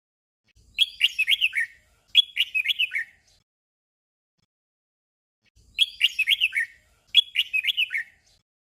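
Red-whiskered bulbul singing its short doubled song: two quick phrases of chirping, falling notes back to back. The pair is heard twice.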